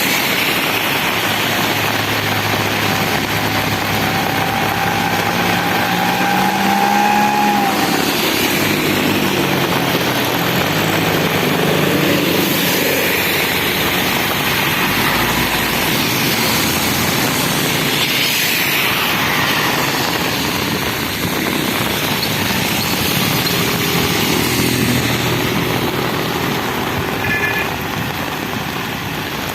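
Road traffic passing on a wet road in monsoon rain: motorcycles and other vehicles going by one after another, their engines rising and falling in pitch as they pass, over a steady hiss of rain and wet tyres. A brief high beep sounds near the end.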